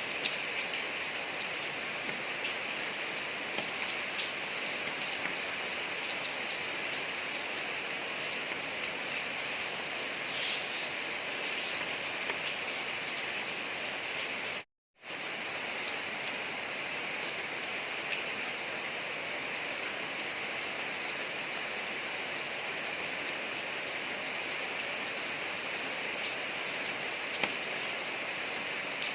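Steady rain falling on a street: an even hiss of drops on the pavement with the odd louder drop. The sound cuts out to silence for a split second about halfway through.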